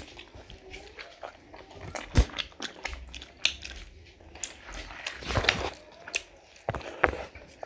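Close-miked eating sounds of two people eating rice and curry with their hands: wet mouth smacks, chewing and sharp clicks, the loudest about two seconds in, around five and a half seconds and at seven seconds.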